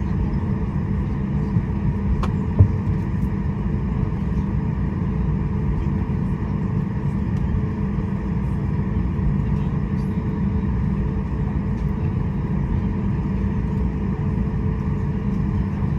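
Steady low cabin rumble of a Boeing 737 MAX 8 with its engines running, heard from inside the cabin, with a single sharp knock about two and a half seconds in.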